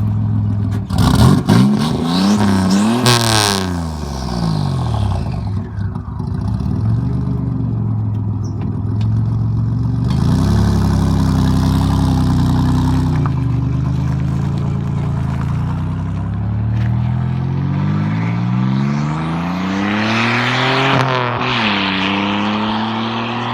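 Car engine revving: the pitch climbs and falls back about a second in, runs steadily through the middle, then climbs and drops again around twenty seconds in. A few sharp clicks come with the first rev.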